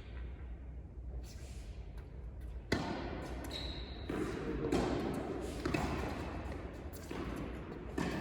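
Tennis balls struck by rackets and bouncing on an indoor court: a handful of sharp, separate hits, the loudest about two and a half seconds in.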